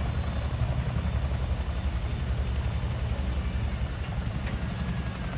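Boeing Chinook helicopter's twin rotors turning, with a steady, rapid low throb.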